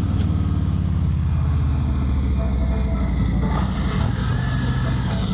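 Harley-Davidson Fat Bob 114's Milwaukee-Eight 114 V-twin idling steadily with an even low pulse, just after start-up.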